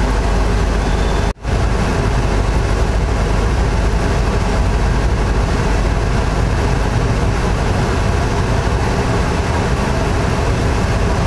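Steady rumble of an Indian Railways intercity express train heard from on board at a station platform. The sound cuts out for an instant about a second in, then the rumble carries on.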